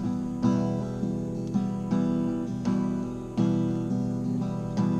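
Acoustic guitar strumming chords, each chord struck anew about once a second.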